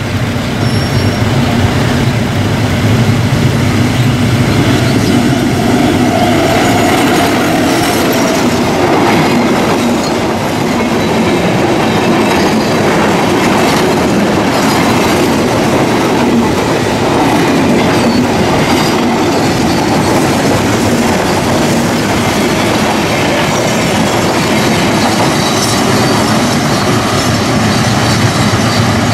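Diesel-hauled passenger train passing close by. The locomotive's engine hum is heard as it comes up in the first seconds, then the coaches' wheels clatter steadily over the rail joints for a long, loud pass.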